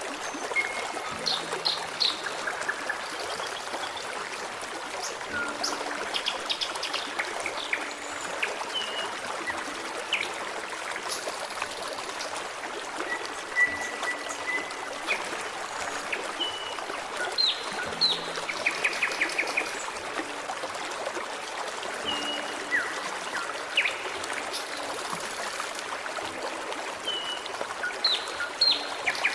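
Forest stream trickling and splashing steadily, with songbirds calling throughout in short chirps and whistles, one held whistle a little past the middle.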